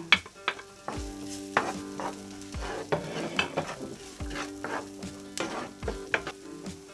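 Onion sizzling in oil in a frying pan while it is stirred, with a utensil clicking and scraping against the pan every half second or so.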